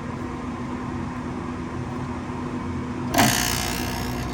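Heat pump HVAC unit on a weatherized equipment enclosure running with a steady hum. About three seconds in, a sudden loud rush of air starts, then eases to a lower steady roar over the hum.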